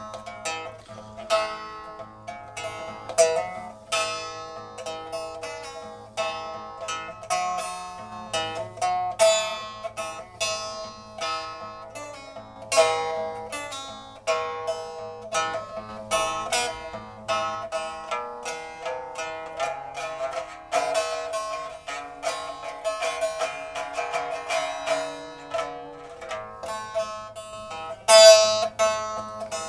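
Instrumental music played on a plucked zither: a steady stream of quick plucked notes over a low held bass.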